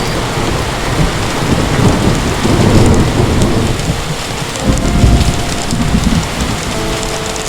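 Heavy rain pouring steadily, with deep rolls of thunder rumbling in swells, the strongest in the first half and again about five seconds in.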